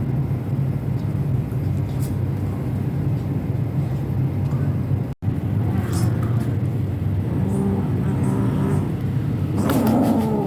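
Steady low rumble of background traffic noise, with faint voices in the second half and a brief dropout about five seconds in.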